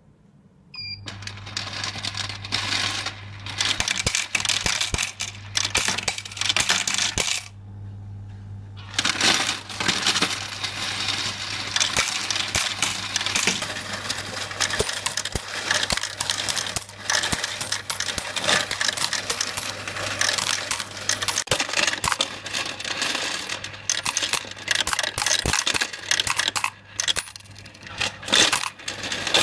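Table-top coin counting and sorting machine: a short beep and its motor starting to hum about a second in, then a dense rattle and clinking of coins being counted and sorted, with a short pause about seven seconds in before it carries on.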